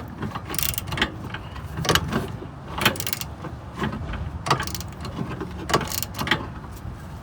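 Ratchet wrench and socket working a rear brake caliper bolt: irregular clicks and metal clacks as the ratchet is swung and repositioned.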